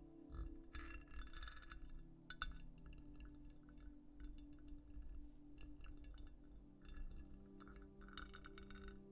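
Faint scratching on a textured surface: short irregular crackly scratch strokes and small clicks, over a quiet held-note ambient music bed.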